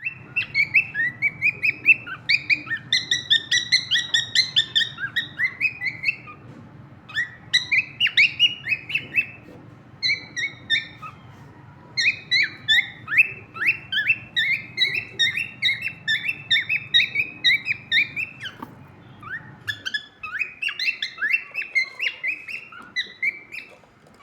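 Cockatiel chirping in fast runs of short, sharp chirps, several a second, with brief pauses between runs.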